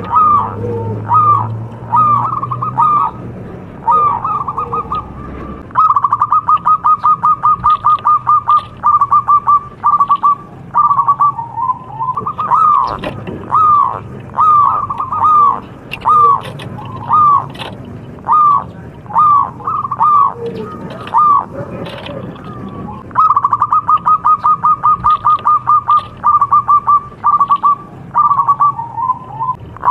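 Zebra dove (perkutut) cooing: single short hooked notes repeated about once a second, broken twice by fast runs of clipped staccato notes, about 6 seconds in and again after about 23 seconds.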